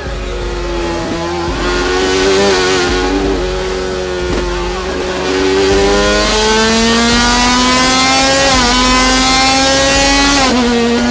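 KTM RC16 MotoGP race bike's V4 engine running at high revs, its pitch climbing slowly for several seconds. There is a brief dip about eight and a half seconds in, and the note drops off sharply near the end.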